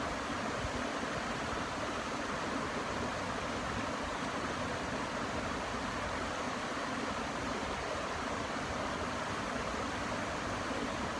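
Steady rushing of river water pouring over a waterfall.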